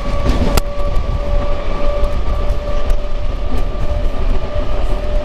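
Electric local (EMU) train running at speed, heard from inside the coach: a heavy steady rumble with a steady whine over it, and one sharp clack about half a second in.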